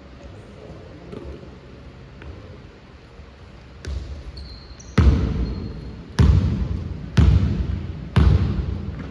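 Basketball being dribbled on a gym floor: five bounces about a second apart, starting about four seconds in, the first softer than the rest. A brief sneaker squeak on the court comes between the first two bounces.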